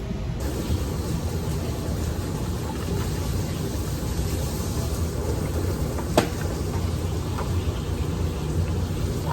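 Wood fire burning in a fireplace: a steady hiss over a low rumble, with a sharp pop about six seconds in and a few fainter crackles.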